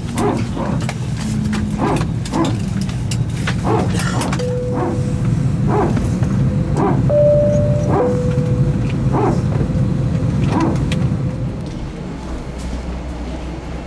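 Airbus A320neo hydraulic power transfer unit (PTU) barking in repeated short pulses, about one and a half a second, over the steady hum of the cabin, with a steady whine alongside; the pulses stop about eleven seconds in. The PTU bark is typical of single-engine taxi after landing.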